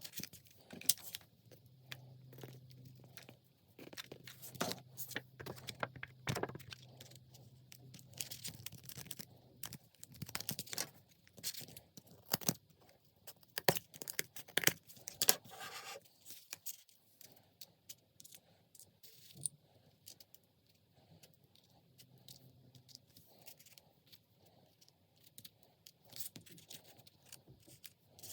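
Paper being folded and creased by hand: irregular crinkles, rustles and scrapes of paper, busiest about a third of the way through to the middle, with a faint low hum underneath at times.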